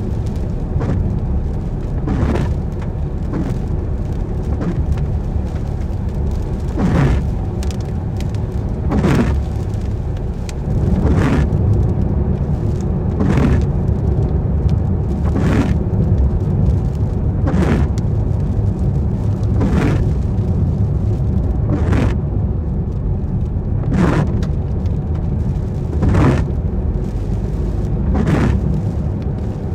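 A car driving in rain, heard from inside: a steady rumble of road and engine noise, with a windscreen wiper swishing across the glass about every two seconds.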